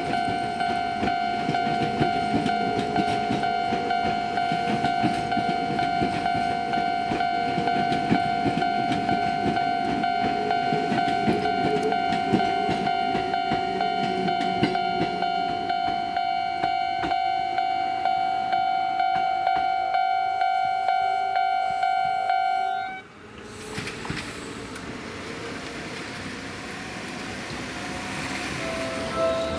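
Seibu 10000 series Red Arrow electric express train running past with wheel rumble and rail-joint clatter, while a level crossing warning bell rings on one steady pitch. Both cut off suddenly about 23 s in. A quieter hum follows and slowly grows louder, as a distant train approaches.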